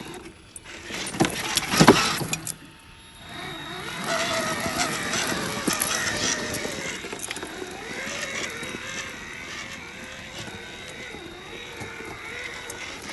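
1/10-scale radio-controlled truck running, its motor whine wavering up and down with the throttle, after a loud rough noise about a second in.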